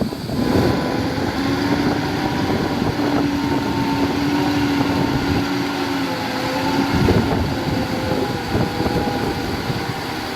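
Heavy construction machinery's diesel engine running steadily under work, a low rumble with a steady hum, and a few short knocks from the machine.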